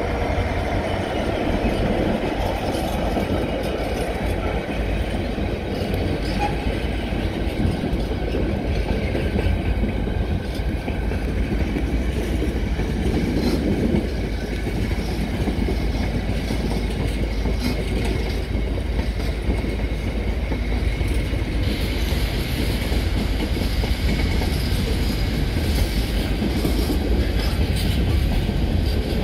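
A Class 66 diesel freight locomotive, whose EMD two-stroke V12 engine is heard at first as it passes, followed by a long train of loaded container wagons rolling by on the track with a steady rumble and clatter of wheels.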